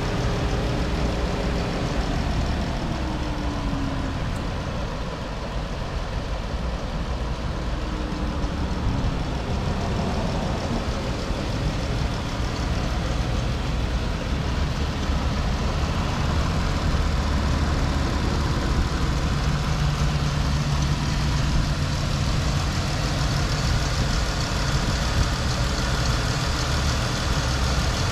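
2021 Dodge Charger engine running steadily, with small shifts in pitch in the first several seconds.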